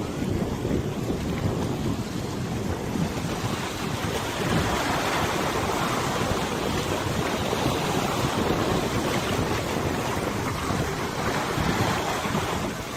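Wind buffeting the microphone over the steady rush and splash of river water and waves, with no break; the higher splashing grows a little from about four seconds in.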